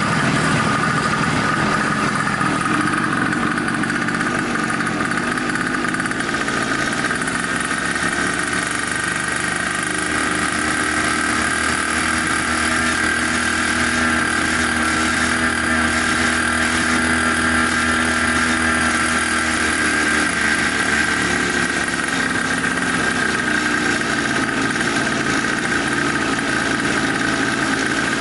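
Small 50cc two-stroke bicycle engine kit running steadily at a constant speed.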